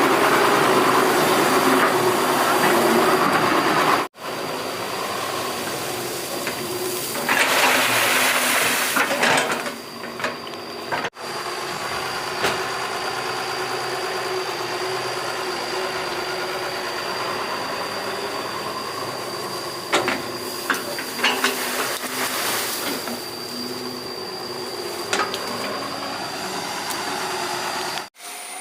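Doosan 140 crawler excavator running steadily, with a thin high whine. About seven seconds in comes a loud hissing surge, and later there are scattered knocks and clicks from the digging. The sound breaks off abruptly a few times.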